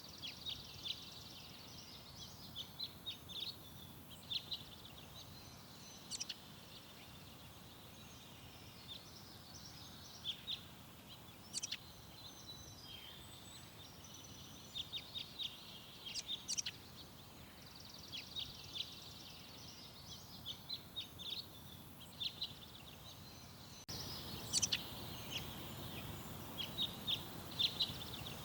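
Small garden birds chirping and calling in short, quick clusters over a steady background hiss. About three-quarters of the way through, the background noise steps up abruptly.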